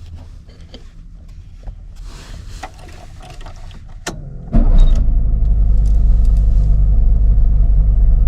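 Quieter clicks and mechanical noise, then about halfway through the 1972 Suzuki Fronte Coupe's 360cc three-cylinder two-stroke engine, converted to fuel injection, fires abruptly and settles into a loud, steady idle.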